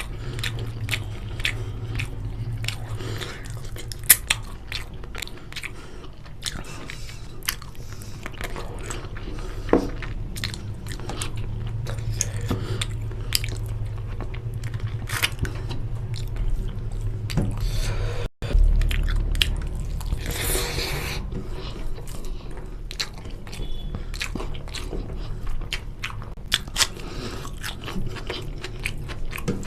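Close-up chewing and biting while eating chicken curry with rice: many small mouth clicks and smacks over a steady low hum. A brief break comes a little past halfway, followed by a short rushing noise.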